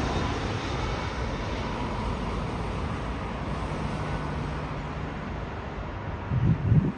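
Low rumble of a jet airliner's engines dying away after a pass, slowly fading into steady background traffic noise. A few loud low bumps come shortly before the end.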